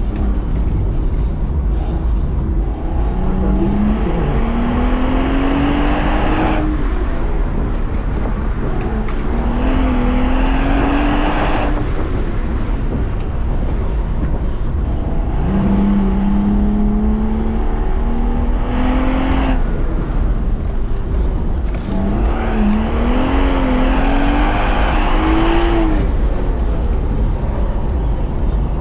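BMW 135i's turbocharged 3.0-litre straight-six accelerating hard around an autocross course. Its note rises in pitch four times as it pulls between turns, and each pull ends abruptly as the throttle is lifted. A steady low rumble runs underneath.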